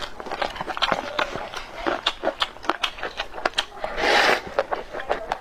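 Close-up mouth sounds of someone eating: a quick run of wet chewing clicks and smacks, with a louder hissing rush about four seconds in.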